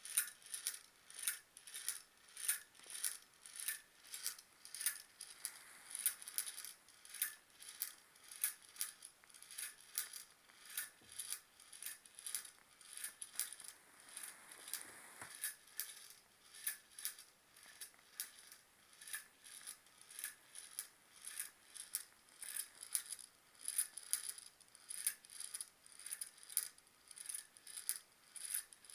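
Small Stirling engine running, its mechanism giving a light metallic tick at an even rate of about three a second.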